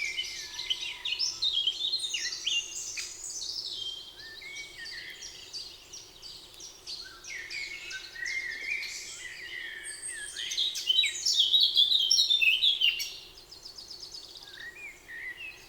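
Several songbirds singing at once in a spring forest, a dense overlap of chirps, whistles and trills that is busiest and loudest a little past the middle, over a faint steady hum.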